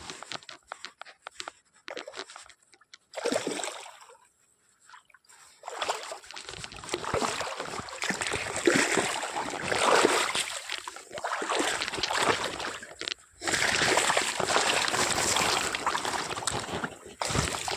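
Water splashing and sloshing in rough bursts as a hooked rohu carp thrashes at the surface while being played in, heaviest from about six seconds on with a short break near the thirteen-second mark. A few light ticks come before the splashing starts.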